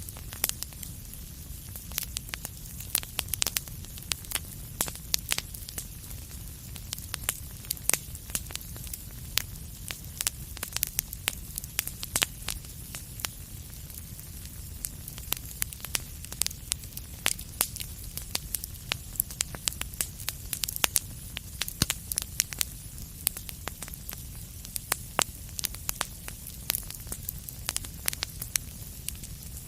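Wood fire crackling: frequent sharp, irregular pops and snaps over a steady low rumble of the flames.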